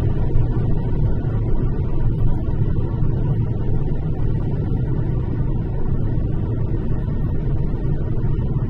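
Steady low rumble of a car's engine and tyres heard from inside the cabin while driving along at an even speed.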